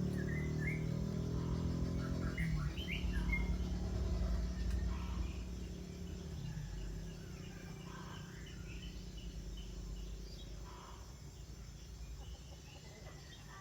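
Birds chirping in scattered short calls over a low, steady motor-like hum that fades away after the first few seconds.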